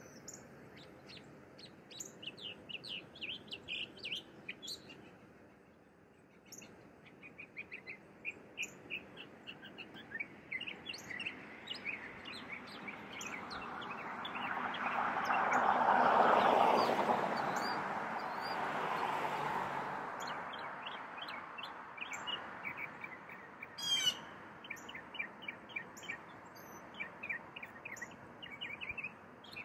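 Small birds chirping, with quick runs of short, high chirps throughout. About halfway through, a broad rushing noise swells up over several seconds and fades again, louder than the birds.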